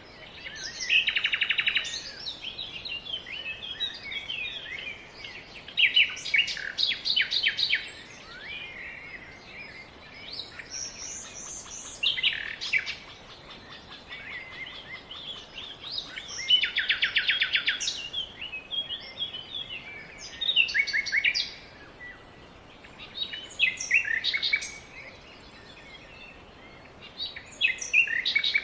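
Songbird singing: short phrases built of fast trills, repeated about every four to five seconds, over a faint steady hiss.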